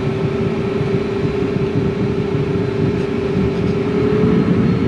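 Cockpit noise of a Cessna Citation M2 jet taxiing: the steady hum of its twin turbofan engines, a constant mid-pitched whine over a low rumble.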